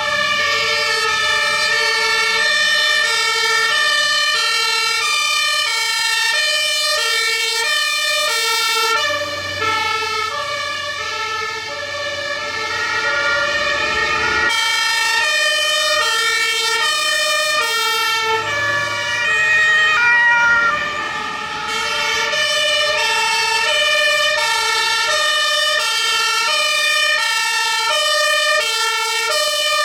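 Several German fire engines' two-tone sirens (Martinshorn) sounding together, each stepping between its two pitches about every half second and out of step with the others.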